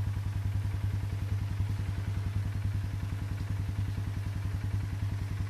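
Small engine idling steadily, a low hum with a rapid, even pulse.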